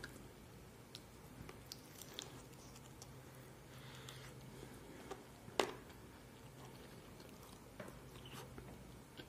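A person chewing and biting crispy roast chicken, with small wet mouth sounds and scattered light clicks, and one sharp click about five and a half seconds in. A faint steady low hum lies underneath.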